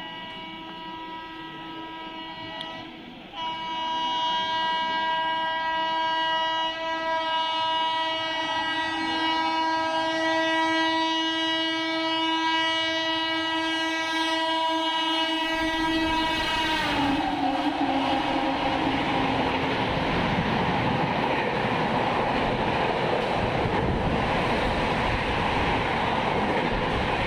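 Locomotive horn sounding one long continuous blast as an express train approaches at speed, louder from about three seconds in, its pitch dropping slightly as it ends about two-thirds of the way through. From just before that, the coaches rush past without stopping, a loud steady rumble of wheels on rails.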